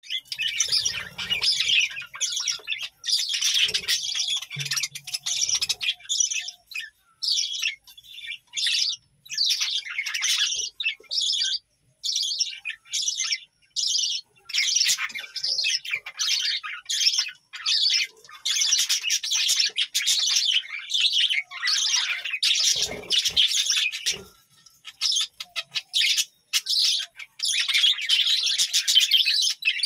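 A flock of budgerigars chirping and warbling, many birds calling at once in quick, overlapping twitters, with a few brief pauses.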